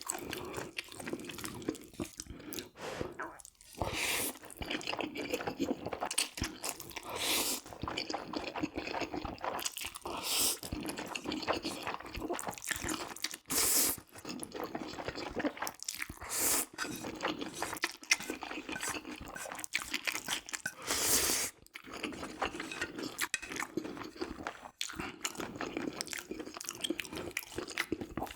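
Close-miked eating: steady wet chewing with small mouth clicks, broken about six times by short slurps of noodles.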